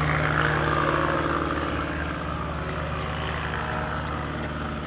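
A motor vehicle's engine running steadily with a low hum, with a broader rushing sound that slowly fades away.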